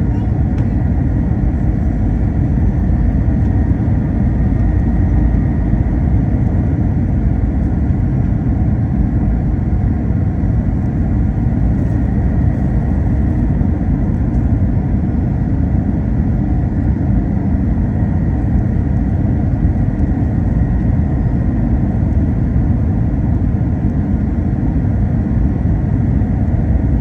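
Airbus A321 cabin noise: a steady low rumble of engines and airflow, with a faint high steady whine above it.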